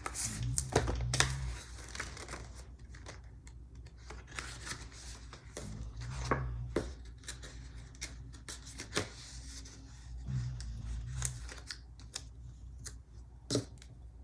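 Close-up handling of paper planner stickers: rustling, rubbing and peeling, with scattered small clicks and short snips.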